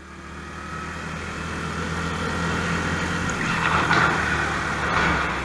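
Motor vehicle running: a steady engine hum with road noise that swells over the first two seconds and is loudest around four seconds in.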